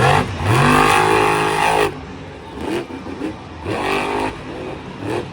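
Monster truck engine revving hard in one long burst of about a second and a half, then several shorter throttle blips.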